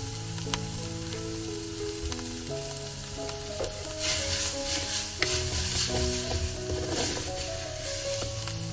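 Ground coconut sizzling in hot coconut oil in a clay pot, stirred and scraped with a wooden spoon. The sizzle and stirring grow louder about four seconds in, when the spoon starts turning the mixture.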